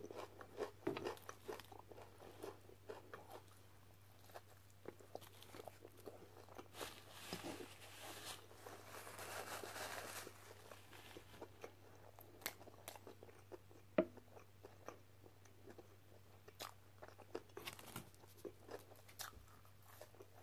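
Close-up eating sounds: crunching and chewing of crisp fried fast food, made up of many small scattered crunches and mouth clicks. About eight to ten seconds in comes a soft rustle of a paper napkin as the hands are wiped. A single sharp click falls about fourteen seconds in.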